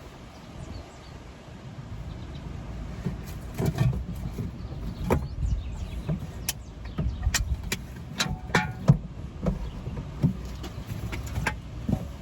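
Objects being handled and moved around inside a car: a string of sharp clicks and knocks, the loudest about nine seconds in, over a steady low rumble.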